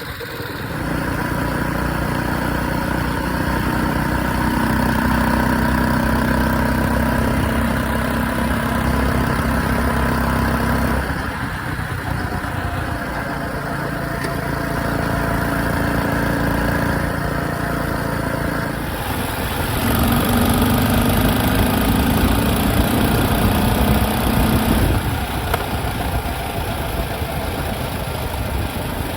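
Small minibike engine, a stock Husky engine fitted with a PZ19 carburetor, running under throttle during a ride. Its speed and loudness change in stretches: it picks up about a second in, eases off around eleven seconds, picks up again near twenty and drops back near twenty-five. The owner believes it runs a tad lean at the top end.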